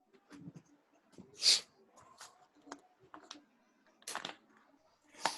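Scattered short rustling and hissing noises, the loudest about one and a half seconds in: background noise coming through participants' open microphones on an online call.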